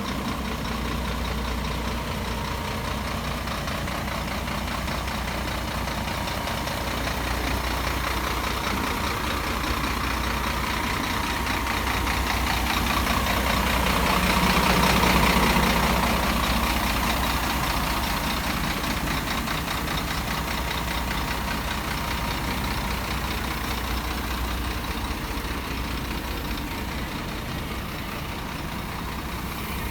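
Scania G420 truck's inline-six diesel engine idling steadily with a low hum. It swells louder for a few seconds around the middle, then settles back.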